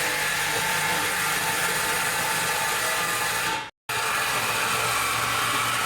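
Reciprocating saw (Sawzall) running steadily as it cuts through a car's exhaust pipe behind the muffler. The sound breaks off for an instant a little under four seconds in, then carries on.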